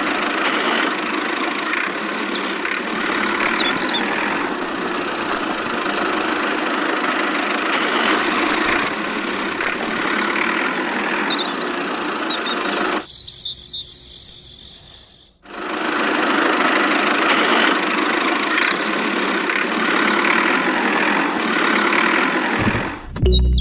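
A small motor running steadily with a buzzing mechanical noise. It cuts out for about two seconds a little past the middle, then runs again.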